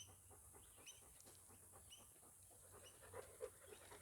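Near silence, with a few faint short high chirps and some soft ticks, a little louder about three seconds in.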